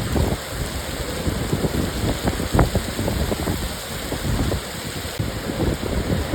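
Rainstorm ambience: a steady, dense hiss of heavy rain with an uneven low rumble underneath.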